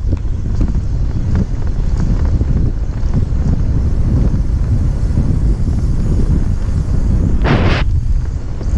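Heavy wind buffeting on the microphone with a low rumble from a fast, brakeless downhill run on a mini bike. A short hiss cuts in near the end.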